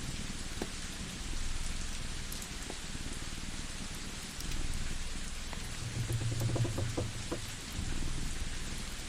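A layered cosy ambience: a steady hiss of rain, a low purring rumble underneath, and scattered sharp fireplace crackles, which bunch together about six to seven seconds in.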